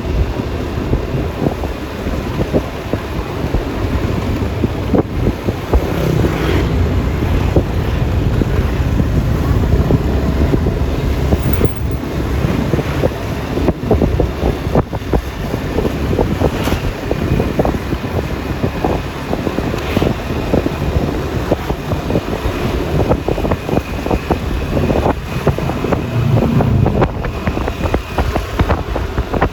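Wind buffeting the microphone on a moving Yamaha Lexi LX 155 scooter, with a crackle of gusts over steady road and engine noise.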